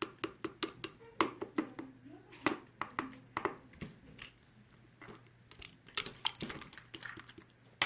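Pink slime being squished and pressed by hand, giving a run of irregular sticky clicks and pops.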